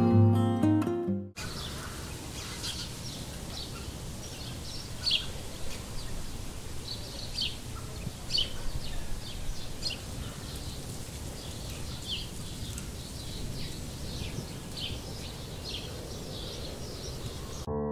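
Birds chirping in woodland, many short high calls scattered over a steady low outdoor rumble. Acoustic guitar music fades out just over a second in.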